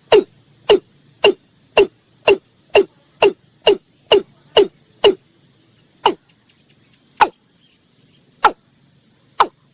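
Watercock (male) calling: a series of loud, short notes, each dropping quickly in pitch, about two a second, then coming more slowly and irregularly after about five seconds.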